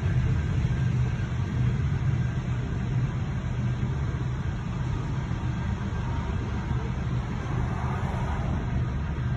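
Loaded coal train's hopper cars rolling past a grade crossing, a steady low rumble heard from inside a waiting car.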